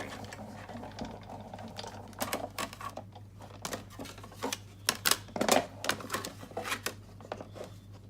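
Big Shot hand-cranked die-cutting and embossing machine being turned to roll an embossing folder through its rollers: a run of irregular mechanical clicks and knocks.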